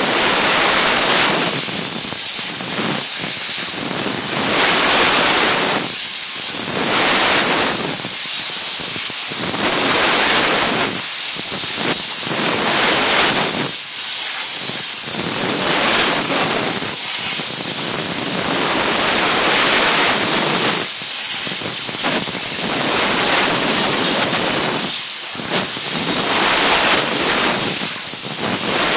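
Steam cleaner jet hissing loudly and continuously, its spray swelling and easing every couple of seconds as the nozzle is worked.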